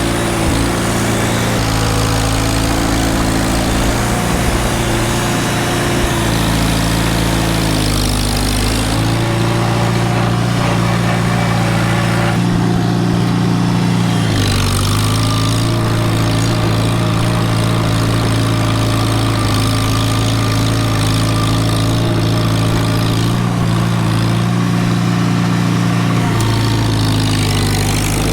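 Small farm tractor's engine running steadily while plowing snow. Its pitch dips briefly and recovers about a third of the way in, about halfway through, and near the end.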